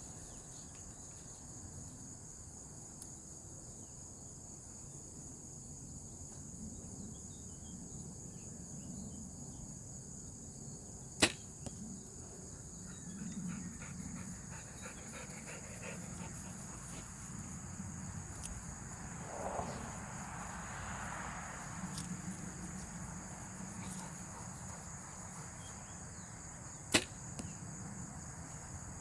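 Steady high buzz of crickets, broken twice by a sharp, loud snap of a bow being shot, about sixteen seconds apart.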